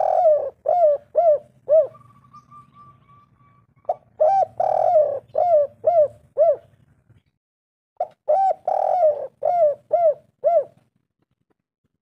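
Spotted dove (tekukur) cooing in repeated phrases: the tail of one phrase, then two more about four seconds apart, each a quick run of short coos around one longer, drawn-out note near its start.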